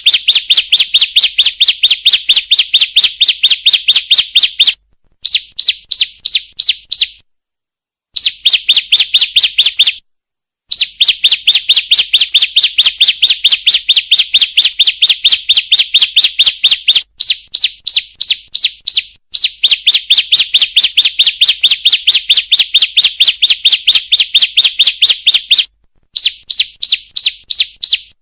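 Female bar-winged prinia (ciblek) call: long runs of rapid, high, evenly repeated chips, several a second, in bouts of a few seconds broken by short pauses. It is a lure call used to draw in males.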